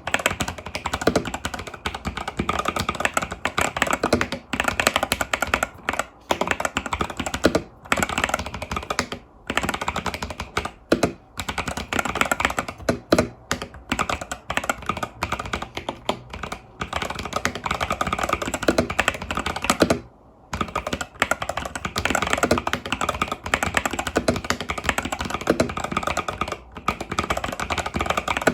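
Fast continuous typing on an Epomaker TH80 Pro mechanical keyboard with Epomaker Budgerigar tactile switches and stock keycaps, a dense run of key clicks and clacks with only brief pauses, the longest about 20 seconds in.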